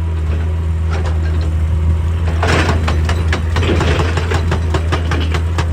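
Excavator's diesel engine running steadily with a low hum, with scattered clanks and a louder burst of rattling about two and a half seconds in, and again just under four seconds in.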